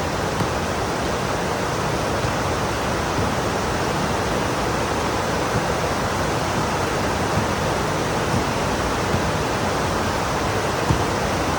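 Heavy rain pouring down steadily, a dense even hiss with a few sharper taps standing out now and then.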